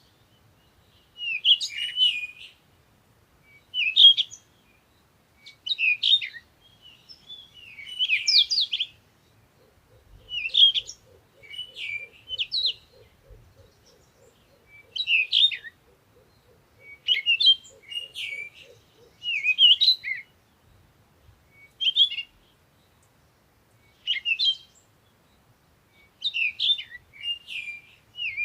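A songbird singing short, high-pitched chirping phrases, one roughly every one and a half to two seconds. For several seconds midway, a faint, low, rapidly pulsing trill runs underneath.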